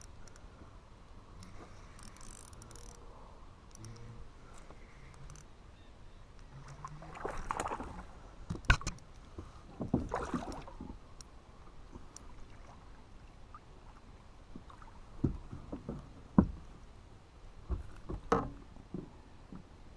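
Water sloshing and splashing around a fishing kayak while a hooked bass is played, with a few sharp knocks on the kayak's hull. Two louder splashy swells come about a third and halfway through, and most of the knocks fall in the second half.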